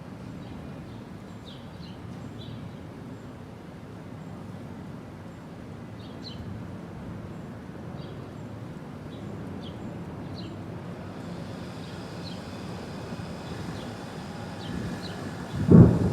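Low, steady rumble of a thunderstorm, with birds chirping in short high calls. Near the end comes a sudden loud clap of thunder.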